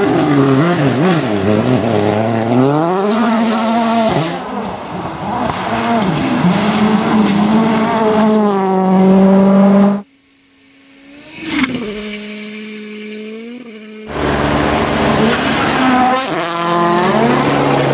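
Rally cars at full throttle, engine pitch climbing and dropping with each gear change, in a run of short clips. About ten seconds in the sound cuts abruptly to a much quieter shot with a car heard briefly further off. About four seconds later it cuts back to another car accelerating hard.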